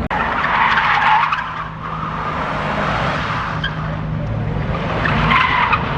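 A car drifting: its tyres screech in two bursts, one lasting about a second and a half near the start and a shorter one near the end, over the steady drone of its engine.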